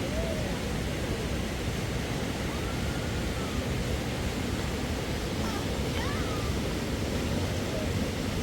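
A steady rushing noise, strongest in the low range, with faint distant voices now and then.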